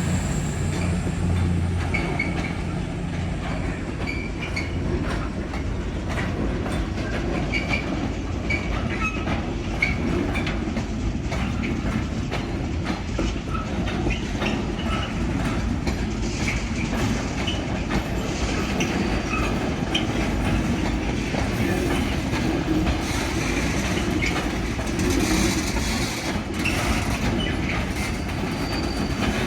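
A train running along the track at the station, its wheels clattering steadily with occasional short squeals. A low hum fades out about two seconds in.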